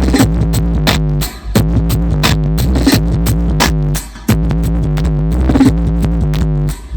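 Mobile sound system playing a loud electronic instrumental with drum machine, synthesizer and heavy bass. The music drops out briefly three times.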